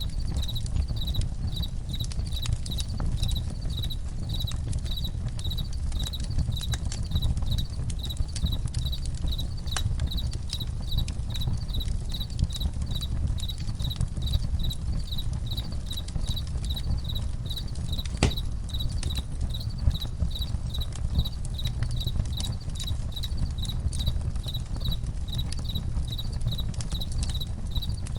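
Campfire crackling with scattered sharp pops over a low rumble, while crickets chirp steadily at about one and a half chirps a second.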